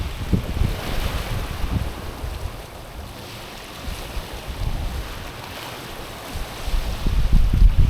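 Small waves washing over a pebbly, rocky shore, the hiss of the water swelling and fading about every two seconds. Wind buffets the microphone with a low rumble, strongest near the end.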